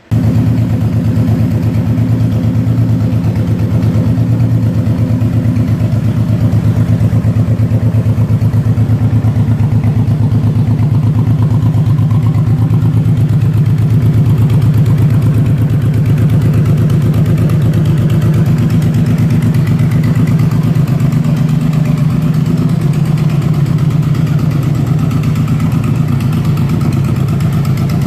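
Honda VTX1800C's 1,795 cc liquid-cooled V-twin engine idling steadily. It cuts in suddenly at the start.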